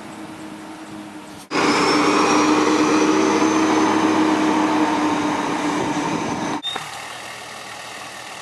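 Toyota LandCruiser 60 Series turbo diesel engine running. About a second and a half in, the sound jumps to much louder for about five seconds, with a high whine that rises slightly, then drops back just as suddenly.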